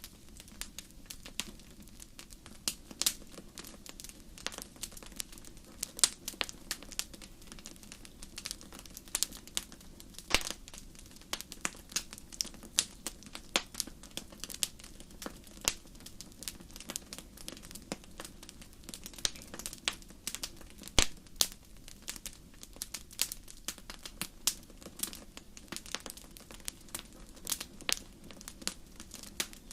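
Wood campfire crackling: frequent sharp snaps and pops at irregular intervals, a few much louder than the rest, over a faint steady low rush.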